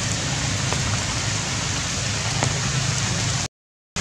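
Steady rain falling, an even hiss with a few faint drip ticks. Near the end the sound cuts out abruptly for about half a second, then the rain returns.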